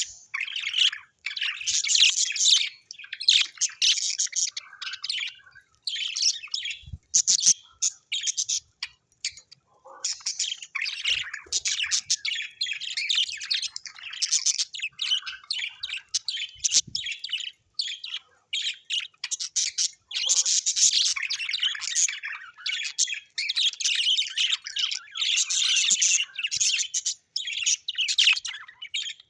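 Birds chirping and chattering in fast, dense runs of high notes, with a few short pauses.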